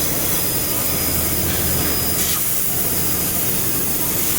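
Steady machine hiss over a low hum from running workshop machinery, with a brief high whine right at the start.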